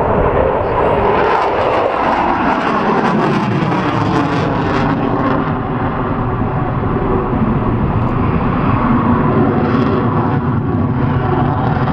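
Loud jet noise from a Eurofighter Typhoon's twin EJ200 turbofans in a display flypast. The pitch falls over the first few seconds as the jet passes, then the noise holds steady and loud.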